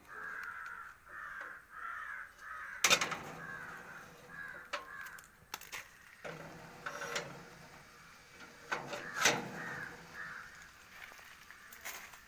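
Crow cawing in quick runs of short repeated calls. Two or three loud, sharp knocks sound between the calls, the loudest about three seconds in and again about nine seconds in.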